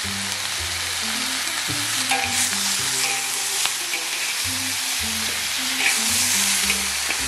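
Pork pieces with ginger, garlic and dried chillies stir-frying in hot oil: a steady sizzle, with a spatula stirring and scraping in a few sharp clicks.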